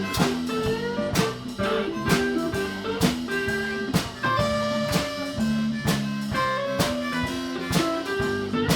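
Live blues band playing a slow blues with a lead guitar solo: sustained and bending guitar notes over bass and drums, with a sharp drum hit about once a second.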